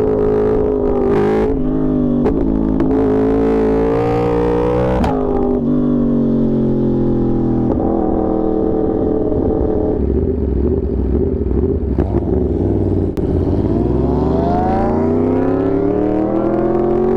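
Yamaha R1's inline-four engine under way: the revs climb over the first few seconds, drop off about five seconds in and ease down for several seconds, then climb steadily again near the end.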